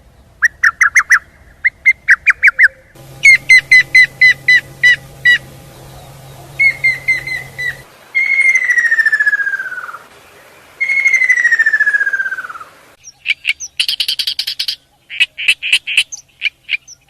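Birdsong: a series of different birds' calls, quick repeated chirps, then two long whistled notes that each fall in pitch over about two seconds, then fast high chirps near the end.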